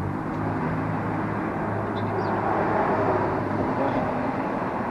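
A steady low engine hum over outdoor background noise, fading out near the end, with a few faint high bird chirps.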